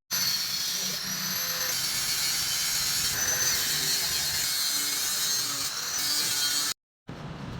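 Electric power tool running with a high whine that shifts in pitch, dipping and recovering about a second in and again near the end.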